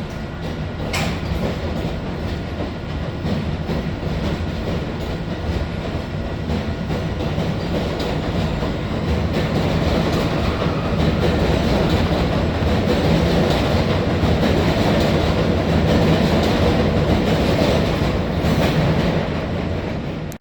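An R62 subway train running on the rails: a steady rumble that builds over the first half and fades away near the end.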